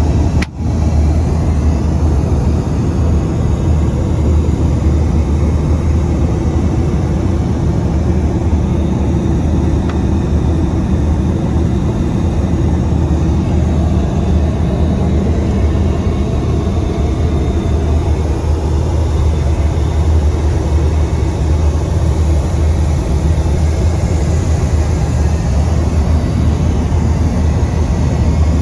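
Steady low rumble and rushing noise of a Boeing 737-900 airliner's engines and airflow, heard inside the cabin, with a brief dropout about half a second in.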